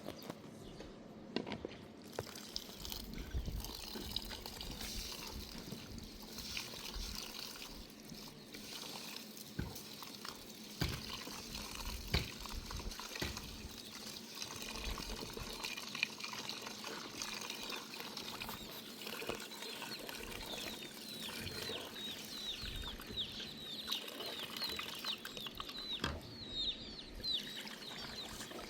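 Water pouring and trickling, with chickens clucking that grows busier in the last several seconds.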